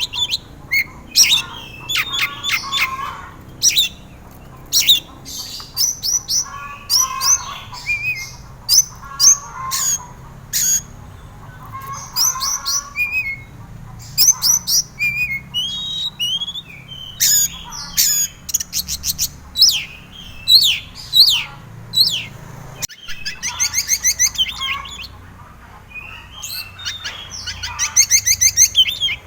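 Oriental magpie-robin (kacer) singing: a varied song of clear whistles, fast repeated chips and rattling trills, phrase after phrase with short pauses between.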